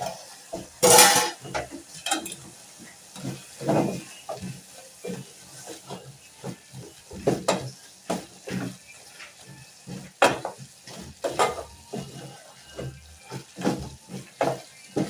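Kitchen clatter of pots and utensils: irregular knocks, clinks and scrapes, with the loudest clatter about a second in.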